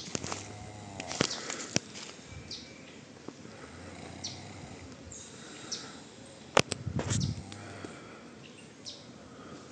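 Birds calling in short high chirps every second or so over a faint insect hum, with a few sharp clicks, the loudest about six and a half seconds in.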